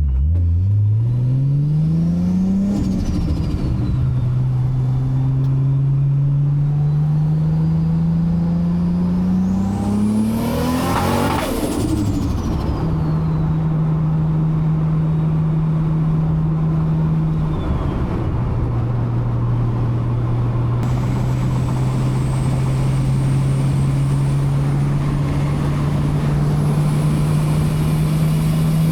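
Toyota Supra MK4's 2JZ-GTE straight-six, big-turbo, heard from the cabin under acceleration. Its revs climb and drop three times as it is shifted up through the gears, then it settles to a steady cruise. A high whine rises and falls about eleven seconds in.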